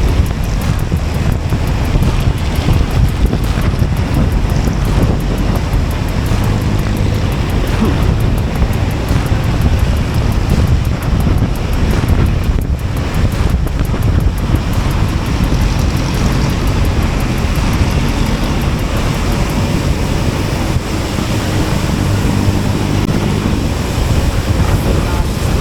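Wind rushing over the camera microphone on a moving Honda Beat scooter, with the scooter's small single-cylinder engine and tyre road noise running steadily underneath.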